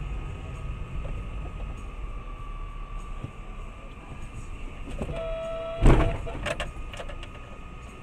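Steady low rumble of a vehicle running, with a faint steady whine. About five seconds in comes a short beep, then a loud thump followed by a few smaller clacks.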